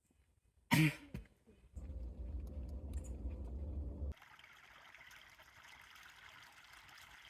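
Stream water trickling steadily, the sound starting abruptly about four seconds in. Before it there is a short loud sudden sound about a second in, then a low rumble for a couple of seconds.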